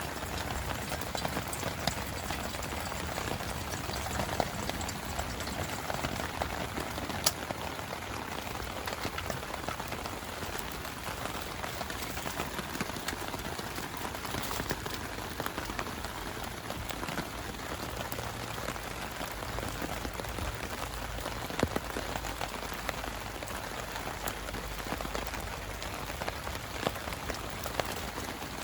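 Heavy rain falling steadily, with many sharp drop strikes and one louder hit about seven seconds in.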